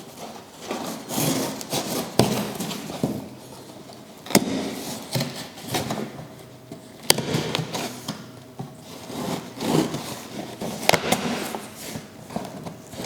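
Cardboard packaging being handled and opened by hand: on-and-off rustling and scraping, with a few sharp knocks.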